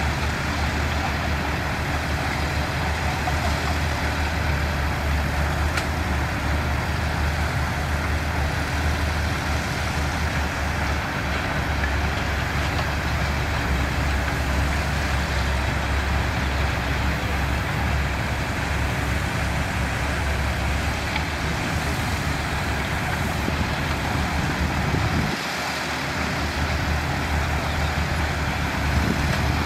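Diesel engine of heavy construction machinery running steadily, with a brief dip in its low hum about 25 seconds in.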